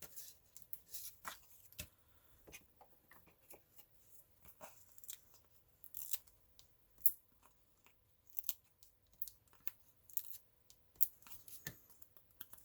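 Paper craft handling: a string of short, irregular crinkles and clicks as foam-adhesive dimensionals are peeled from their backing sheet and pressed onto stamped paper birds.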